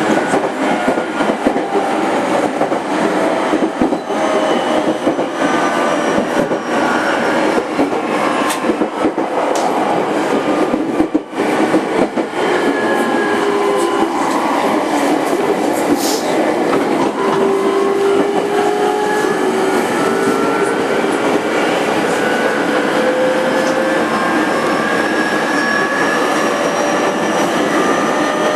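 A JR 205 series 5000-subseries electric train running, heard from inside its motor car, with rail-joint clicks and wheel noise. In the second half, the VVVF-inverter traction motor whine rises steadily in pitch as the train accelerates.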